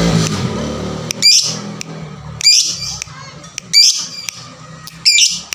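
Lovebird giving short, shrill chirping calls, four times about a second and a quarter apart, as a lure call to set off rival lovebirds.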